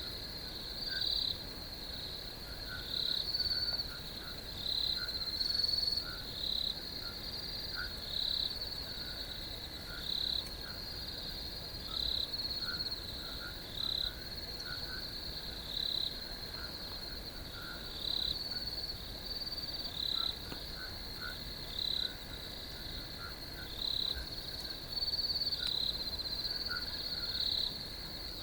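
A chorus of crickets trilling without a break, with a louder chirp pulsing in about once every second or two and fainter, lower short calls scattered between.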